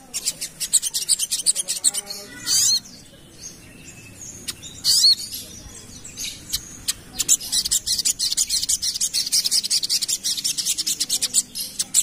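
Little spiderhunter (sogok ontong) singing a very fast, dense run of high chipping notes, about ten a second. It pauses for a few seconds, giving a couple of single rising notes, then takes up the rapid chatter again.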